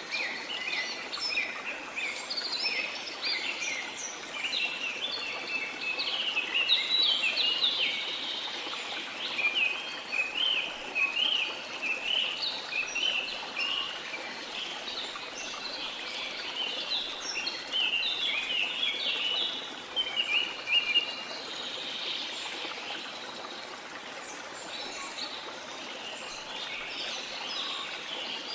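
Many birds chirping and calling in quick, overlapping phrases over the steady rush of falling water. The birdsong thins out about three quarters of the way through, leaving mostly the water.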